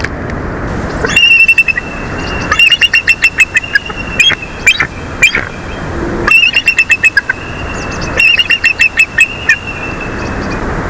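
Bald eagles calling: four bouts of high, quick chattering notes, each bout a run of rapid staccato calls. Wind rushes on the microphone between the bouts.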